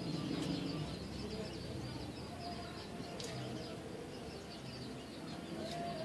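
Birds chirping softly and rapidly, many short high chirps, over a low steady background hum.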